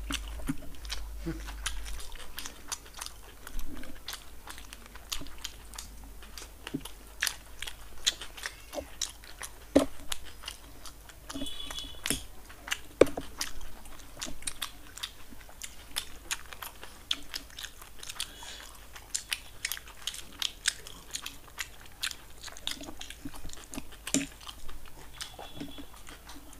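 Two people eating fast, chewing and biting chicken satay and chicken Manchurian close to a small table microphone: an irregular run of sharp mouth clicks.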